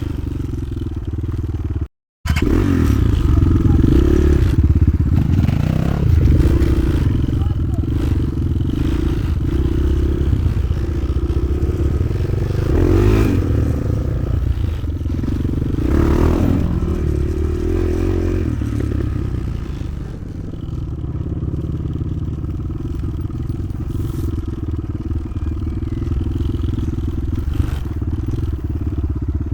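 Motoland XR 300 Lite enduro motorcycle's engine running while being ridden, its revs rising and falling, with rattling from the bike. The sound drops out briefly about two seconds in.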